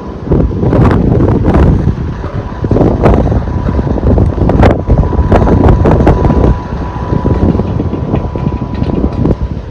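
Strong sandstorm wind buffeting the microphone: a loud low rumble with sharp crackles, heaviest for the first six seconds or so and then easing a little.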